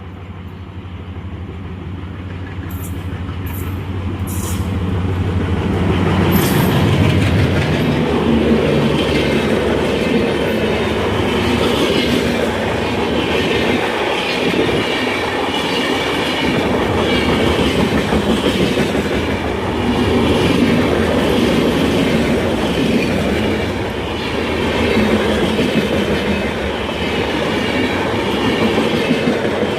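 WDM3A ALCO diesel locomotive running through at speed, its engine hum growing louder over the first six seconds as it draws level and passes. A long rake of LHB passenger coaches then rolls past, with steady wheel noise and a rhythmic clickety-clack over the rail joints.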